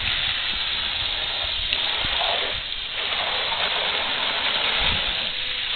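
Water splashing steadily as the truck is rinsed off.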